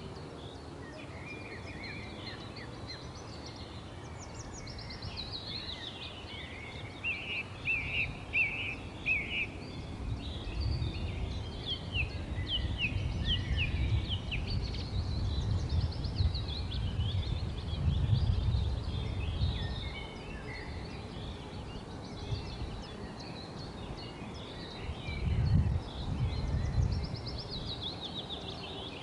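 A chorus of several wild birds chirping and singing together, with short calls and quick trills overlapping throughout. A low rumble comes and goes underneath, strongest in the middle and again near the end.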